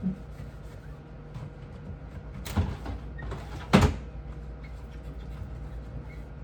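Two sharp knocks about a second apart, from refrigerator parts being handled and set in place during cleaning, over a steady low hum.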